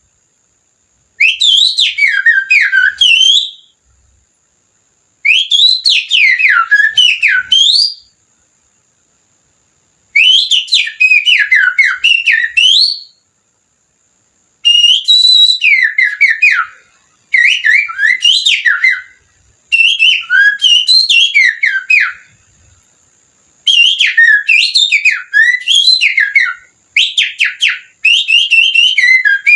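Finger whistling with the little finger, imitating the song of an oriental magpie-robin (kacer): about eight phrases of quick, warbling, up-and-down notes, each two to three seconds long, with short pauses between them.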